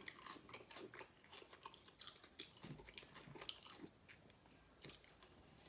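Faint chewing of crunchy spicy corn chips: scattered soft crunches and wet mouth clicks.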